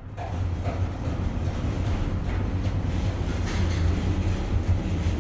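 Orona machine-room-less elevator car travelling in its shaft: a loud, steady rumble with a strong low hum, starting up sharply at the beginning.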